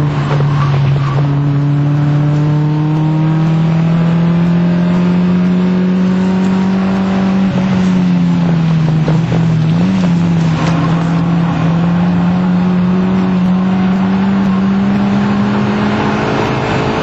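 Fiat Punto Mk1 1.2 16v four-cylinder engine heard from inside the cabin, pulling hard on track with its pitch climbing slowly. About nine seconds in the note dips and comes back up, then it climbs steadily again.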